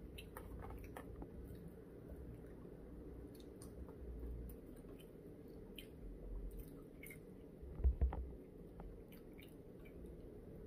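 A person chewing food close to the microphone, with small wet mouth clicks. Two dull low thumps about eight seconds in.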